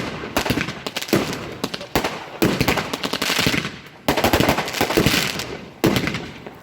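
Celtic Fireworks consumer fireworks going off in rapid volleys of sharp bangs, each volley trailing off into crackle, with a new volley every second or two.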